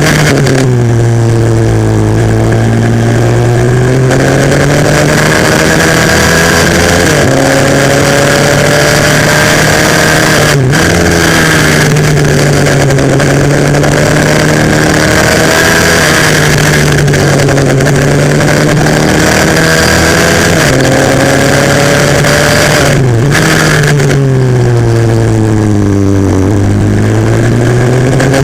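140cc pit bike's single-cylinder four-stroke engine heard onboard at race pace. The engine note rises as the bike accelerates and falls away as it brakes for corners, with a couple of brief cuts in the note at gear changes.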